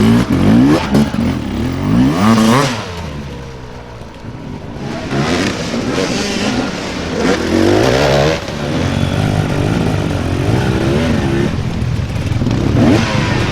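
Dirt bike engine revved hard in repeated surges, its pitch climbing and falling again and again, loudest in the first couple of seconds.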